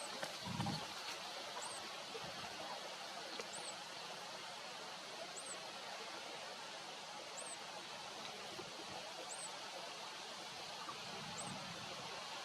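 Steady outdoor hiss with a short, very high chirp repeating about every two seconds, and a brief low thump about half a second in.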